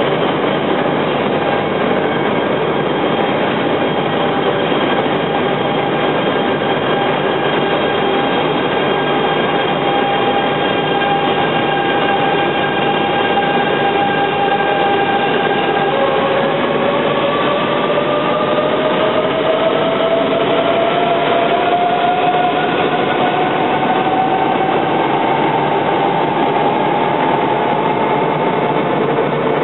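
E926 'East i' Shinkansen test train running along a station track: a steady rumble of running noise with a high electric whine that, from about halfway, climbs steadily in pitch as the train picks up speed.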